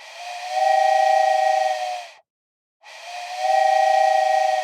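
Steam-type train whistle blown twice, two long blasts of about two seconds each with a short gap: a breathy, hissing chord of two close notes that swells in and tails off.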